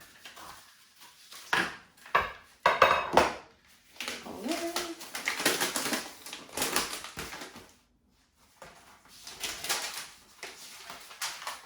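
Metal curtain-pole parts and fittings clinking and clattering as they are handled, in several separate bursts.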